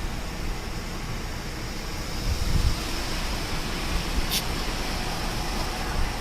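Steady roadside vehicle noise with a low rumble, heard on a body-worn camera. A louder low thump comes about two and a half seconds in, and a short sharp click about four seconds in.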